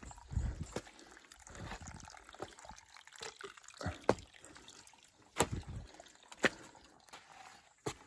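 A person walking and climbing over wet forest ground: irregular footsteps with scattered sharp clicks and snaps underfoot.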